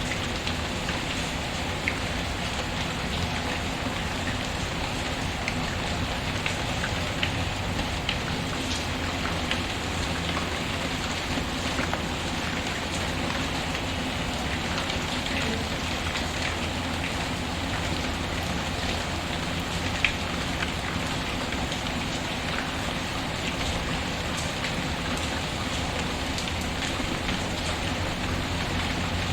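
Steady rain pattering, mixed with scattered small crackles from a fireplace fire; one sharper pop comes about two-thirds of the way through.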